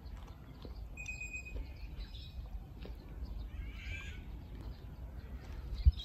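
Wild birds calling: a clear whistled note about a second in and a short burst of chirps around four seconds in, over a steady low rumble. A single dull thump just before the end is the loudest sound.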